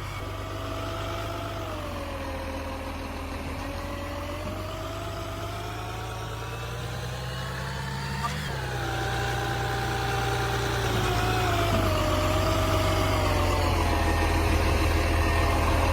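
Garbage truck engine running, with a whining tone that slowly slides up and down in pitch and grows louder over the second half.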